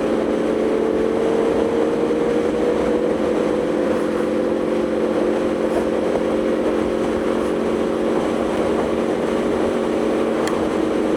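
Aprilia Tuono V4's V4 engine running at a steady cruise on the road, a constant drone of several tones with the pitch creeping up slightly in the first few seconds.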